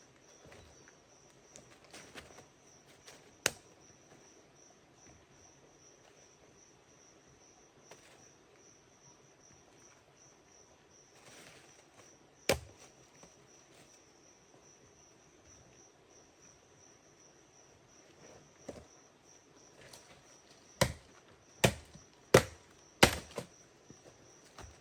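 Steady high insect chirring, cricket-like, with a few sharp chopping strikes. One strike comes early, one midway, and four follow in quick succession near the end, about two-thirds of a second apart.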